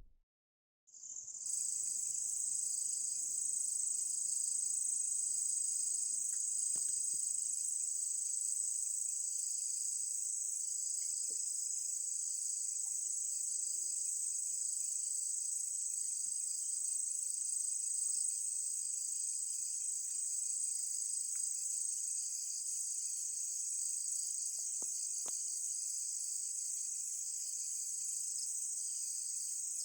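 Night insects singing in a continuous, steady high-pitched chorus, with a fainter, lower-pitched trill underneath. It begins about a second in.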